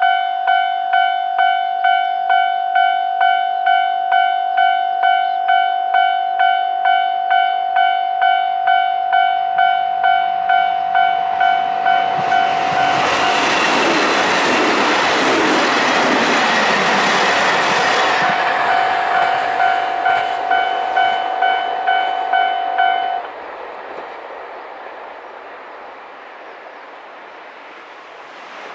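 Japanese level-crossing warning bell ringing steadily at a little under two strokes a second while a six-car KiHa 261 series diesel limited express passes, its rumble and rail noise swelling and fading midway. The bell then stops abruptly, leaving only faint background hiss.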